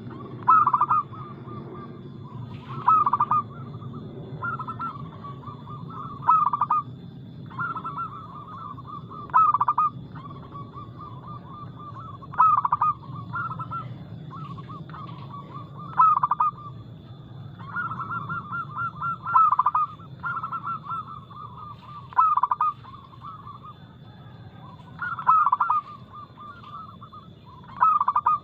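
Zebra dove (perkutut) cooing in a continuous run of rapid notes, with a loud accented call about every three seconds.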